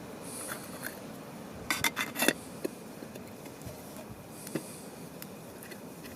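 Cookware and utensils being handled, with a quick cluster of sharp clinks and clatters about two seconds in and a few lighter ticks and knocks after.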